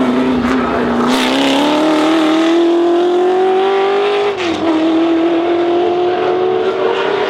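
Historic racing car engine at high revs, its pitch climbing steadily under acceleration. About four seconds in the pitch drops abruptly with a brief dip in loudness, an upshift, then it climbs again.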